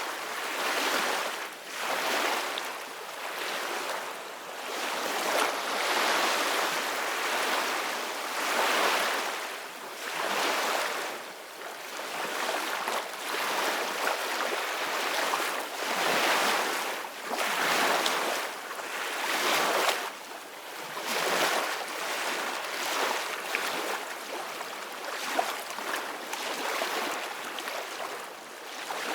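Ocean surf on a beach: waves breaking and washing in, the noise swelling and falling back every two to three seconds.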